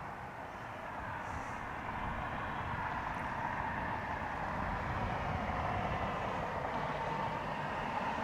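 Jet airliner engines running, a steady rumble growing gradually louder.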